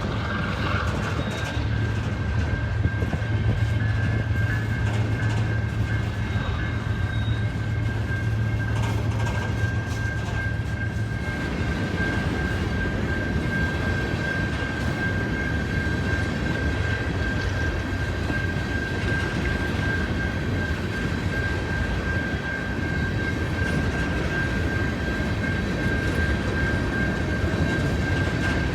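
Freight train passing close by. For about the first eleven seconds a diesel locomotive engine drones low. After that the cars roll by with a steady rumble and clatter over the rails, and a thin, high steady whine from the wheels runs throughout.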